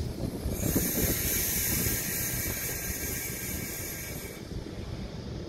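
Sydney Trains double-deck electric train rolling slowly along the platform with a low rumble, while a loud hiss of air from the train starts about half a second in and cuts off suddenly about four seconds later.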